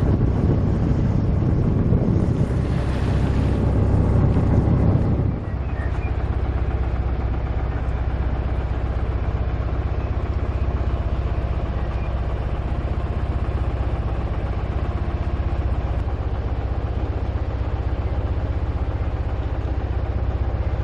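A yacht's engine running steadily under way, a low even drone. For the first five seconds or so a louder rushing noise lies over it, then stops abruptly.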